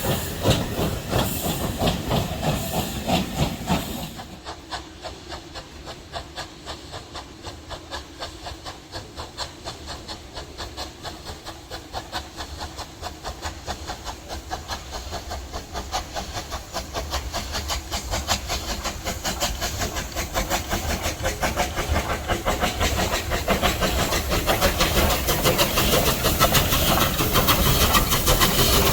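Steam locomotive running, with a steady rhythmic beat that grows louder toward the end. A loud hiss of steam fills the first four seconds and cuts off suddenly.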